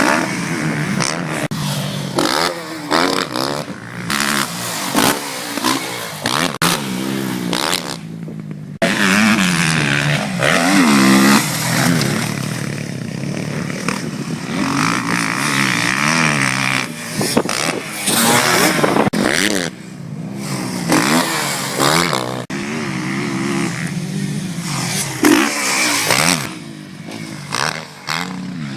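Motocross bike engine revving hard and easing off again and again as the rider works the throttle and gears. The pitch climbs, falls and climbs. There is a brief cut in the sound about eight seconds in.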